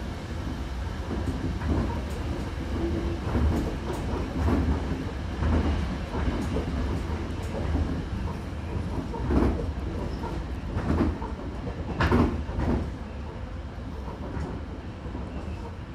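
Hankyu Kyoto Line commuter train running, heard from inside the car: a steady low rumble with the wheels clacking over rail joints at uneven intervals, the loudest clacks about nine, eleven and twelve seconds in.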